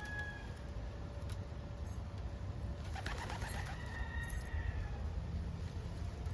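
Homing pigeons cooing, over a steady low rumble, with a brief rustle about three seconds in.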